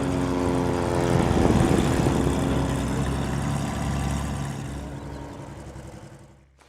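Light propeller aircraft flying past: a steady engine drone that drops slightly in pitch and fades away, dying out near the end.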